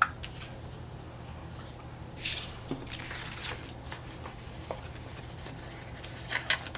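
Light rustling, peeling and a few small clicks of sticker sheets and planner paper being handled, over a steady low hum from the home heating.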